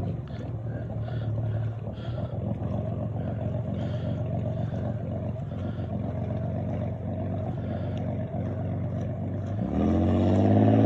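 KLC inboard boat engine running at low throttle with a ragged, uneven exhaust note that sounds like a misfire. The cause is exhaust cooling water pooled in a low spot of the exhaust pipe, not a real misfire. Near the end the throttle opens, the engine pitch rises and settles, and it runs louder and smoother.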